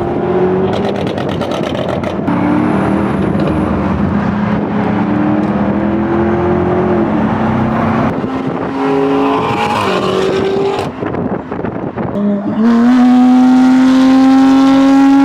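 Straight-piped BMW engine accelerating hard through the gears. The revs climb in several pulls, dropping at each upshift, with exhaust crackles near the start. The last and loudest pull rises steadily from about three seconds before the end.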